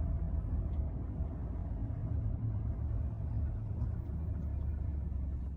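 Steady low rumble of a vehicle on the move, engine and road noise heard from inside, with a faint steady hum above it.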